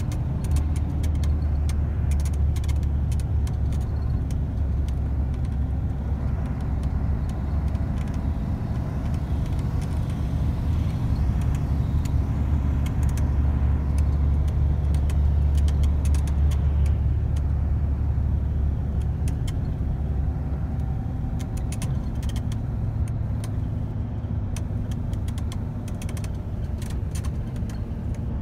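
Passenger train running at speed, heard from inside the carriage: a steady low rumble with light rattles and clicks throughout.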